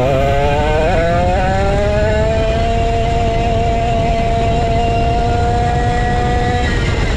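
A vintage go-kart's 135cc Sudam two-stroke engine revving up over the first couple of seconds, then holding a high steady pitch, then dropping off shortly before the end. A steady rushing noise runs underneath.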